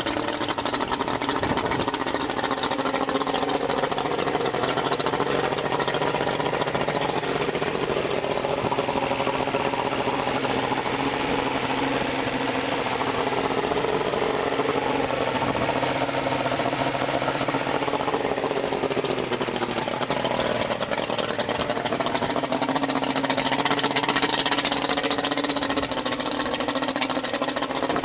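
The engine of a 1985 Grady-White 226 Seafarer boat running steadily, its pitch drifting slightly up and down.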